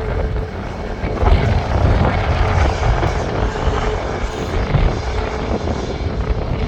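Airliner jet engine noise mixed with heavy wind buffeting on the microphone, a rumble that swells and dips throughout.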